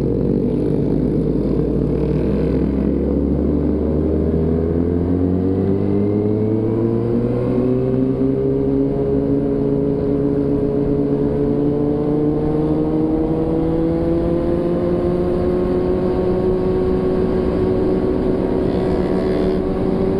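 Motorcycle engine under way, its pitch climbing slowly and steadily for several seconds as the bike gains speed, then holding steady at a cruise, over a constant rush of noise.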